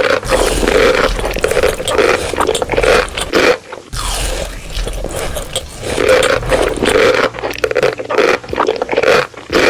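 Close, loud scraping in quick irregular strokes, with a short break a little under four seconds in.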